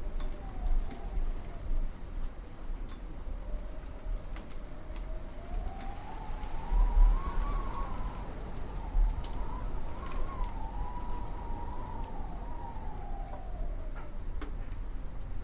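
Winter wind howling, a faint whistle that slowly rises and falls once over a low rumble, with scattered light clicks.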